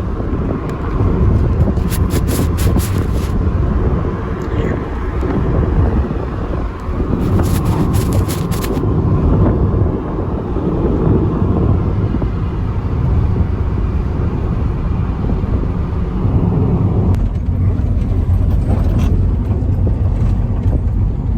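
Steady low rumble of a car driving on the road, with short clusters of sharp clicks about two seconds in and again around seven to nine seconds.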